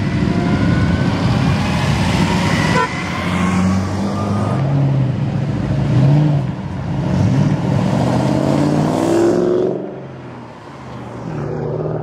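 Car engines running as several cars drive past one after another; one engine revs up about nine seconds in, then the sound drops away.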